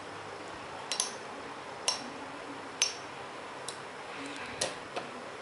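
Two slowing metal Beyblade spinning tops, Lightning L-Drago and Rock Leone, clicking sharply against each other or the stadium wall about once a second as they wobble near the end of their spin.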